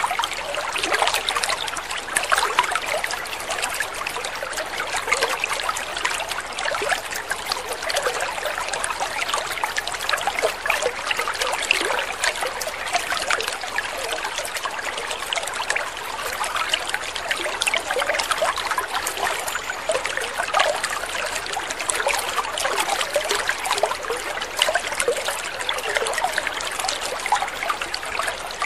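Water trickling and splashing steadily, a dense, unbroken babble of many small splashes.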